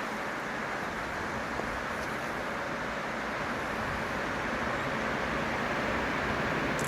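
ED4M electric multiple unit approaching on the rails: a steady rumbling noise that grows slowly louder.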